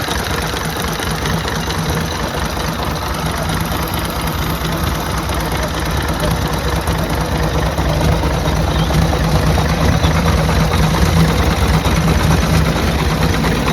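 1904 Maudslay's 9.6-litre six-cylinder overhead-camshaft engine idling steadily, growing a little louder about halfway through.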